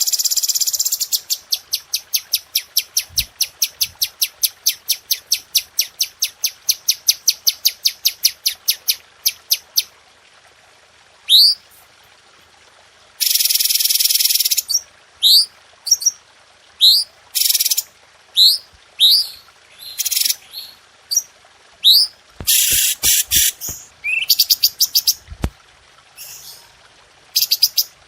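Cucak cungko songbird calling. For about the first ten seconds it gives a fast, even run of sharp high chips, about four or five a second. After a short pause come quick rising whistles mixed with loud harsh bursts.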